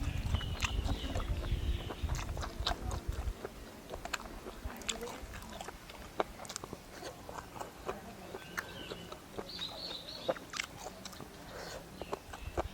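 A person chewing and biting crunchy food, with many short, crisp crunches. A low rumble stops about three seconds in, and a few high chirps sound near the end.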